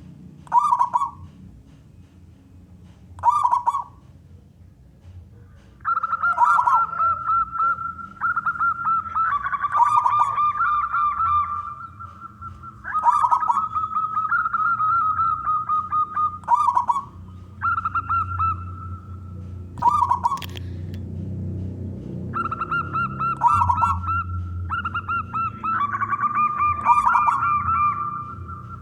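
Male zebra dove (perkutut) cooing: two short notes in the first few seconds, then a run of longer trilling coo phrases repeated with brief pauses between them.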